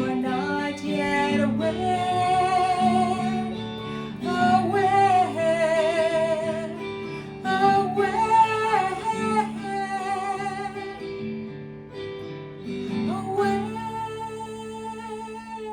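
Acoustic guitar with a woman singing long held, wavering notes in several phrases. The song ends on a last held note that fades out near the end.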